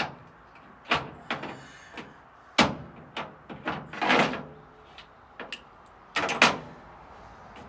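A series of about eight irregular, sharp knocks and bangs, some with a short ring after them, a second or so apart.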